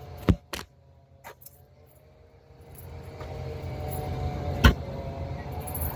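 V6 van's dual exhaust, run through a Y-pipe and a Flowmaster 40 series muffler, giving a low rumble that swells up about three seconds in and then holds steady. There are two sharp knocks near the start as the camera is set down, and one sharp click near the end.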